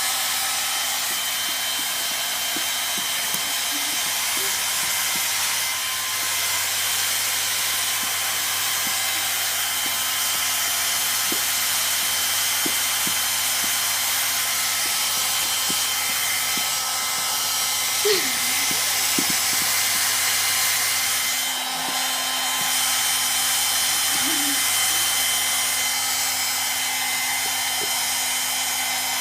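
Electric hair dryer running steadily: an even rush of blown air over a motor whine, with a brief dip about 22 seconds in.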